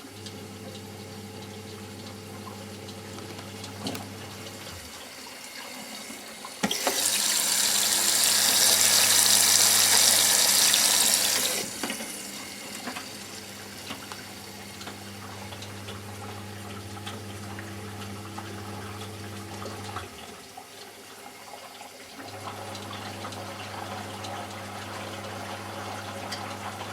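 Eudora Sparmeister 702 Classic washing machine taking in water for the fabric-softener rinse. A steady low hum runs throughout, and a loud rush of inflowing water lasts about five seconds from roughly a quarter of the way in.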